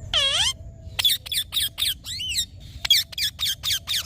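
Indian ringneck parrot calling: one drawn-out, wavering call just after the start, then a quick run of short, shrill screeches, a few of them warbling up and down in pitch.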